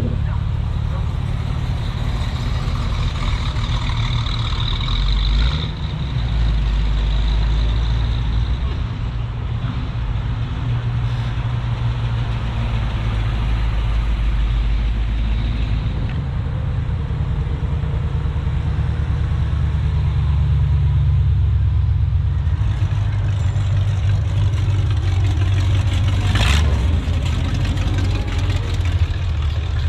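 Car engines running at low speed, a steady low rumble whose pitch shifts a few times. A short sharp sound comes about 26 seconds in.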